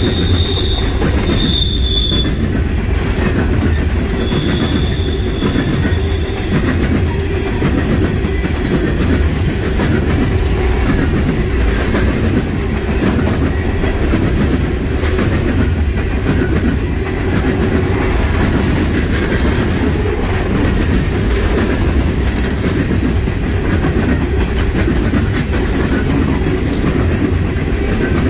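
Freight train cars rolling steadily past, a loud continuous rumble. A high, thin wheel squeal sounds twice in the first six seconds.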